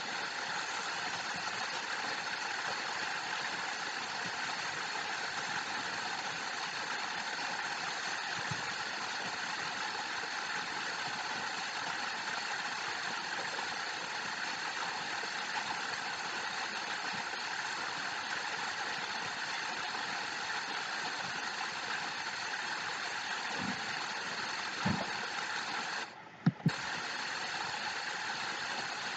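Steady rush of falling water, an even hiss with no change in pace; it cuts out for about half a second near the end, around a few faint low knocks.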